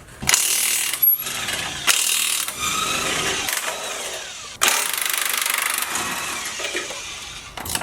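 Power wrench rattling as it runs bolts off the truck's front suspension, in several runs with short breaks; the last and longest run is a fast, even rattle.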